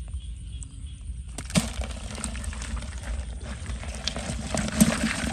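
Splashing and sloshing in shallow water. It starts about a second in, as a dense run of small splashes, with a sharp splash soon after and another near the end.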